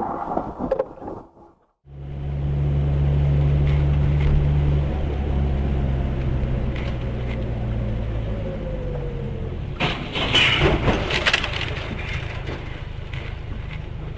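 A motor vehicle's steady low engine and road drone, then a burst of cracking and crunching impacts about ten seconds in: a car collision.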